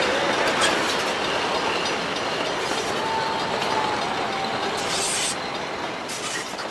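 Train carriages rolling on the rails, their wheels running with a few faint squeals. The sound fades as the train moves away.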